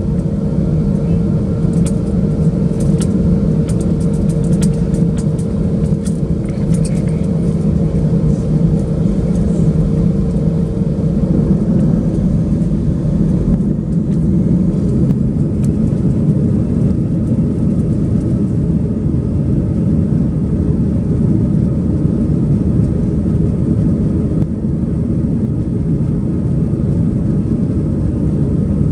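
Airbus A320-200 heard from inside the cabin: a loud, steady rumble of the jet engines and airflow. A steady tone runs under it and stops about eleven seconds in, and scattered clicks come in the first several seconds.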